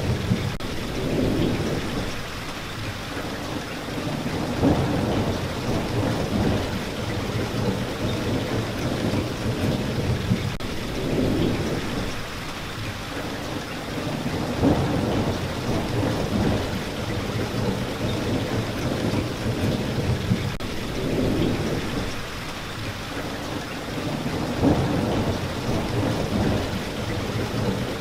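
Steady rain falling, with low rolling thunder swelling and fading several times.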